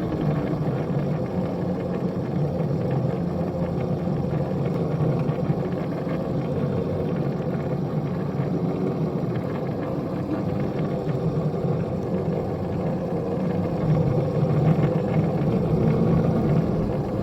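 A small engine running steadily, a little louder near the end.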